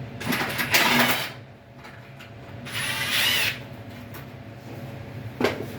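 Cordless screw gun running in two short bursts, about a second each, the second with a slight rising whine.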